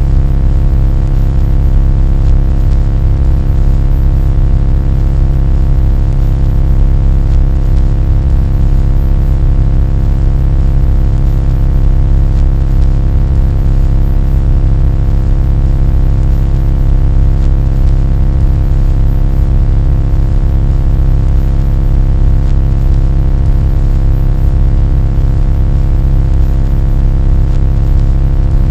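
Loud, steady low droning hum with many fixed tones layered above it, unchanging throughout.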